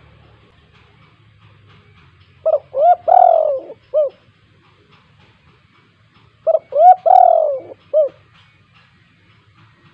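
Spotted dove (tekukur) cooing its song twice, about four seconds apart. Each phrase runs two quick short notes, a longer drawn-out falling coo and one short closing note.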